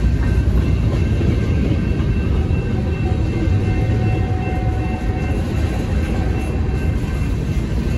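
A freight train's cars, mostly covered hoppers, rolling steadily past over the crossing, with a continuous low rumble and clatter of steel wheels on the rails.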